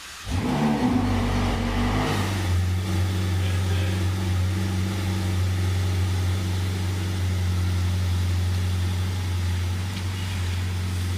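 Ferrari 488 GTB's twin-turbo V8 starting from cold: it fires up with a rev flare lasting about two seconds, then settles into a steady idle.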